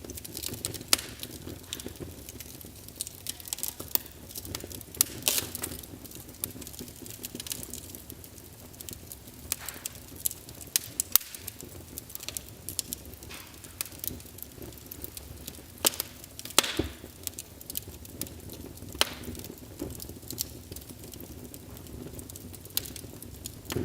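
Wood fire in a fireplace burning with a steady low rumble and irregular crackles and sharp pops, a few louder snaps among them.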